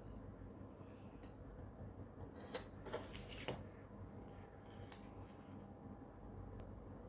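Faint steady low hum with three light clicks, about half a second apart, a little before the middle.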